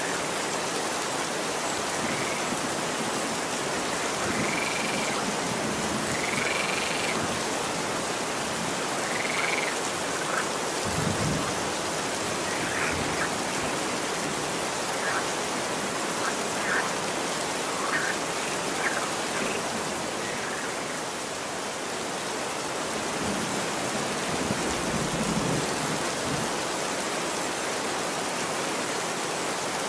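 Steady, even rain falling, with a series of short animal calls over it through the first twenty seconds or so, a few drawn-out arched calls first and then quicker chirps.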